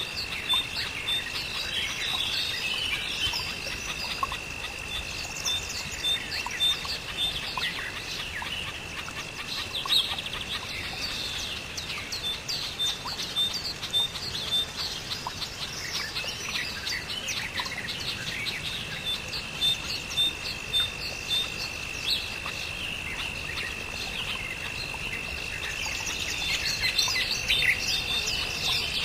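Several birds chirping and calling over a steady, high, unbroken insect trill. Short bursts of quick repeated notes come in about a second in and again around the middle.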